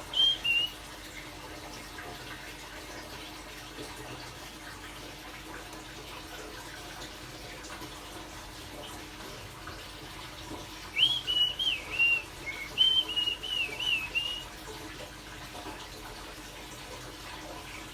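A short whistled phrase right at the start, then about eleven seconds in a run of quick, clear whistled notes jumping in pitch for about three and a half seconds, in the style of a common blackbird's song. Both sit over a steady faint hiss.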